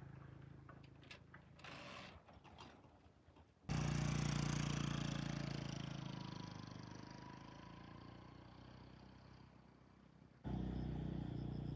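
A few light clicks and clatter, then an engine starts up abruptly and runs, growing steadily fainter over several seconds. It breaks off suddenly and comes back loud near the end.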